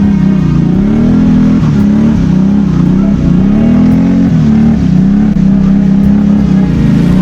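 BRP Outlander 650 ATV's V-twin engine running under varying throttle, its pitch rising and falling several times as it revs up and eases off.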